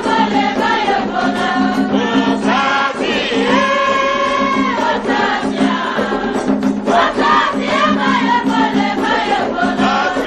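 Several voices singing an Afro-Brazilian orixá chant together, with drums and percussion keeping a steady beat under it; one long held note about a third of the way through.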